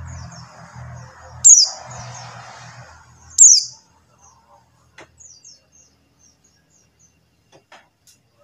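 Female buxtoni white-eye (pleci buxtoni) calling: two loud, sharp, high chirps that slide downward, a couple of seconds apart, then a scatter of faint short chirps. A low hum and a hiss lie under the first half.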